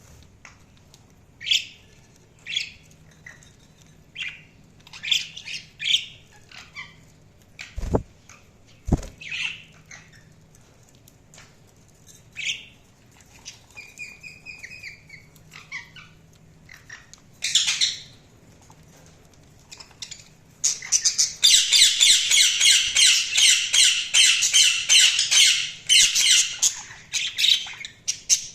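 Budgerigars calling: short chirps and squawks spaced a second or so apart, then, about two-thirds of the way in, a loud continuous rapid chatter. Two low thumps a second apart come about a quarter of the way in.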